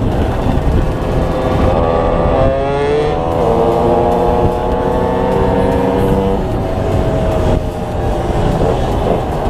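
Derbi DRD 50cc two-stroke engine under way on a ride. Its pitch climbs about two seconds in, holds steady for a few seconds, then falls away as the throttle is eased, with a rough, buzzy engine note throughout.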